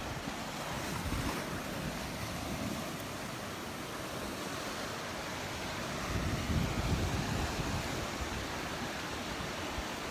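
Small surf washing onto the beach, mixed with wind buffeting the microphone; the wind rumble swells about six to seven seconds in.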